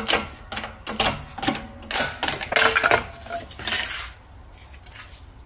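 Rapid, irregular metallic tapping and scraping from hand-tool work on a car's lower control arm, about two to three strokes a second, dying down about four seconds in.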